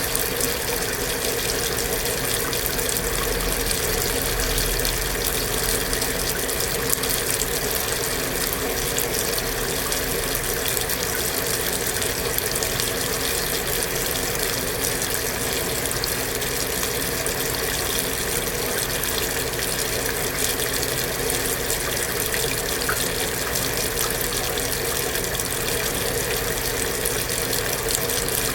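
Water running steadily from a sink faucet hookup into the tub of a Kenmore belt-drive portable washing machine as it fills at the start of the cycle.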